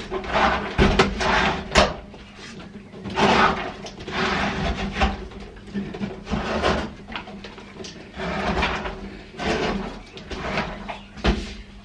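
Irregular clunks, scrapes and rustling of things being handled and shifted about around a washing machine, with several sharp knocks, over a faint steady low hum.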